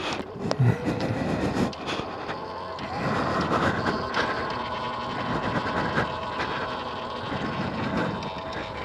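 X Pro electric dirt bike ridden along a dirt trail: a steady motor whine with rattling and knocks as the bike goes over bumps.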